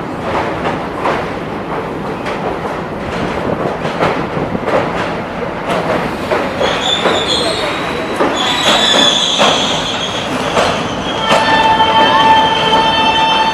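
Passenger train running on the rails, with clicks from the wheels over rail joints. From about halfway, high metallic wheel squeal sets in, and near the end it settles into one steady squealing tone.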